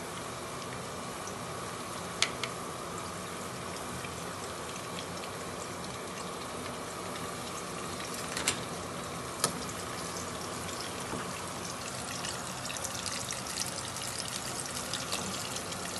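Spinach, ginger and green-chilli tadka sizzling steadily in a small frying pan, with a few sharp pops. Near the end the crackle grows denser as kebabs fry in ghee.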